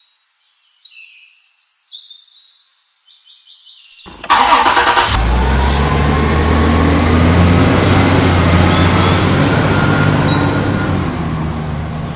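A short run of high falling chime tones, then about four seconds in an engine starts abruptly and runs steadily.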